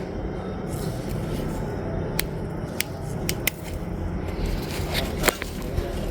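A handful of short, sharp clicks or snips, irregularly spaced, over a steady low rumble.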